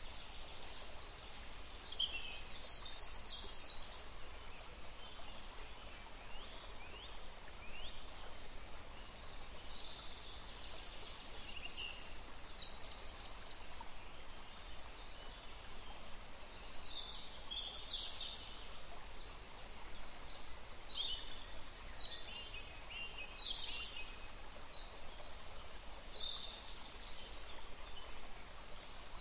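Small birds chirping and singing, many short high calls and quick gliding notes repeated throughout, over a steady background hiss.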